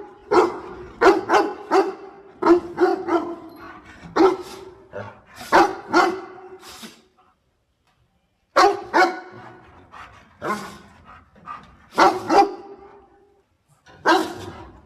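A dog barking repeatedly in short, sharp barks, often two or three in quick succession, with a silent pause of about a second and a half midway before the barking resumes.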